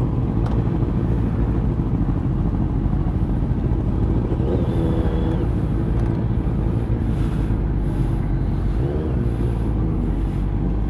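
Motorcycle engine running steadily with a heavy low rumble, as on a big bike under way.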